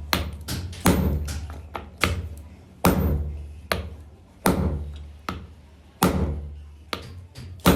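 Hammer blows on metal at a steady pace: about nine strikes, a little more than one a second, each ringing briefly as it dies away.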